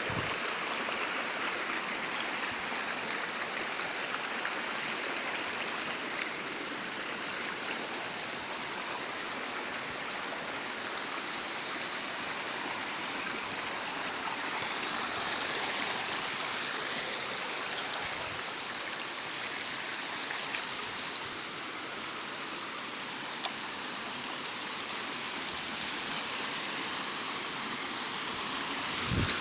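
Waterfall water rushing steadily, a continuous even roar of falling and flowing water.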